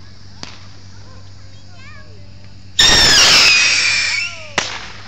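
A firework whistling loudly for about a second and a half, several shrill tones sliding slowly down in pitch, followed by a sharp bang; a faint pop comes about half a second in.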